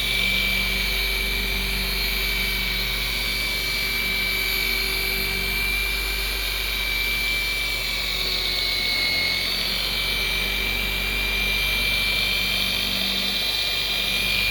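Rotary buffer (DeWalt DWP849X) running steadily while compounding boat gelcoat, a continuous motor whine whose pitch sags briefly about nine seconds in before recovering.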